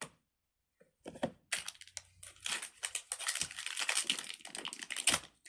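Plastic wrapping crinkling and crackling as it is handled, in a dense run of small crackles that starts about a second and a half in and goes on for several seconds.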